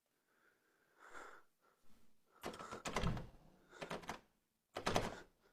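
A door thudding and rattling in three short bursts about a second apart, the sound of a shut door being shaken or pushed.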